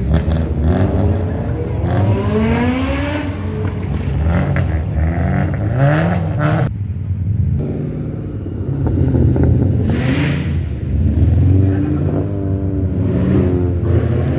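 Car engines accelerating and revving, the pitch climbing and dropping again several times, over the steady rumble of traffic.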